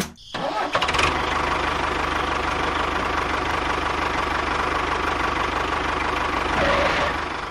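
A small motor running steadily with a fast, even chatter. It starts just after the music cuts out and fades away near the end.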